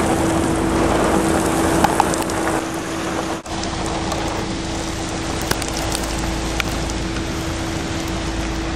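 Steady rain and wind noise in a tornado storm, with a constant hum underneath and scattered sharp ticks. The sound drops out for an instant about three and a half seconds in.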